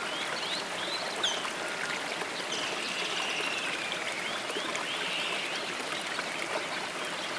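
A stream running steadily, with birds chirping over it: short chirps and a longer call in the middle.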